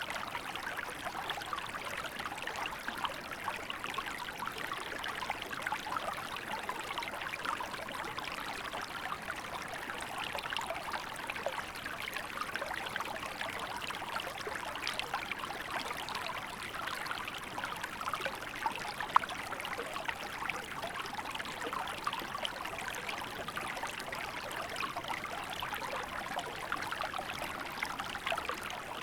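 A small river in winter flowing steadily, a continuous rush of water with many small fast splashes running through it. A single sharper tick stands out about two-thirds of the way through.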